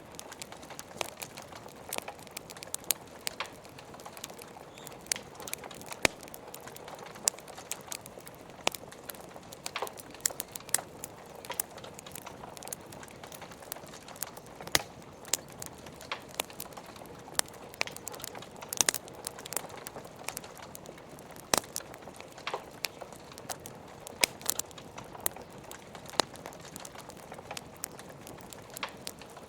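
Wood fire crackling, with irregular sharp pops several times a second over a steady hiss of rain.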